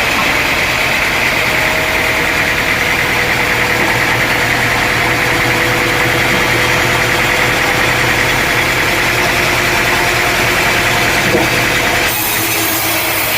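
Sawmill machinery running steadily, a continuous engine drone. The sound changes abruptly about twelve seconds in.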